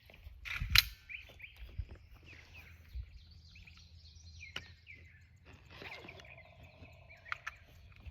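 Small birds chirping and calling outdoors, with one sharp click about a second in and a few fainter clicks later.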